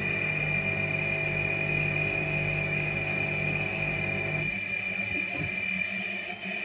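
Midea 10.5 kg washer dryer drying, with a steady high-pitched squeal over a low motor hum. The hum stops about four and a half seconds in while the squeal carries on, which the owner takes to mean the squeak is not coming from the drum's rotation.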